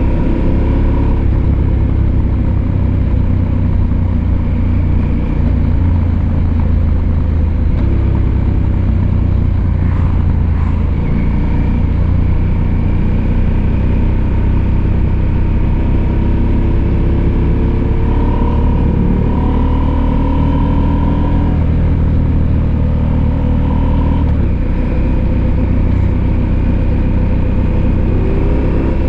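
Husqvarna Norden 901's 889 cc parallel-twin engine running under way, its note rising and falling with the throttle.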